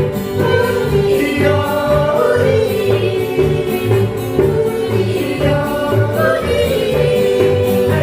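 A group of voices singing a song together, holding long notes over instrumental accompaniment with a steady low beat.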